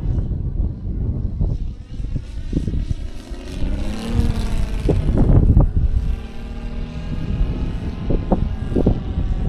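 Saito FG-60R3 three-cylinder radial four-stroke engine of a quarter-scale Sopwith Pup RC model biplane running in flight, its propeller-driven engine note rising and then falling in pitch about halfway through as it passes. A heavy low rumble with irregular thumps runs under it.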